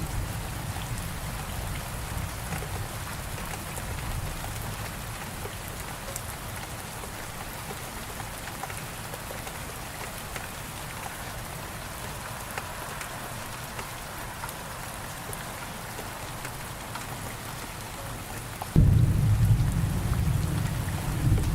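Steady rain falling, with a low thunder rumble dying away at the start and a sudden loud rumble of thunder breaking near the end.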